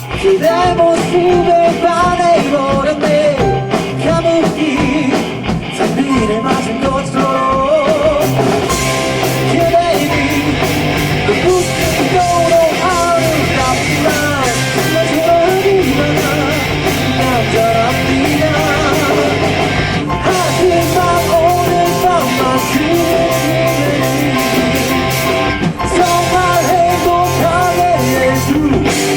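Live rock band playing a fast rock song, with a singer over drums, bass, electric guitars and keyboard.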